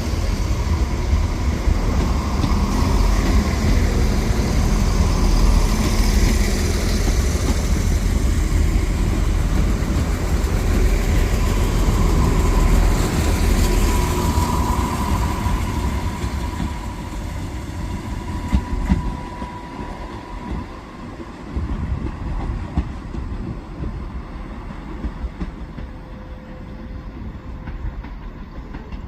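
Train running past on the rails, wheels clattering over the rail joints, with a thin high whine in the middle. The rumble is loud at first and fades away over the second half as the train moves off.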